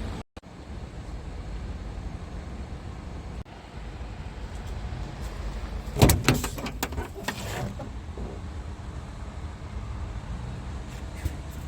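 Scania R400 truck's inline-six diesel engine idling with a steady low rumble. About six seconds in comes a loud burst of several sharp knocks and clatter lasting about a second and a half.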